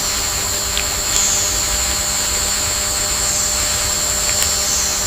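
Steady rainforest ambience: a continuous high insect drone that swells slightly now and then, over a low rumbling hiss.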